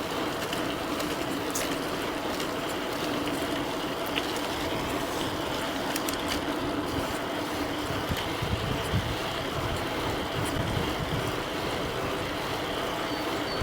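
Steady wind and road noise from an e-bike ridden fast on the road, with a faint steady hum underneath. Low rumbling gusts come through about eight to eleven seconds in.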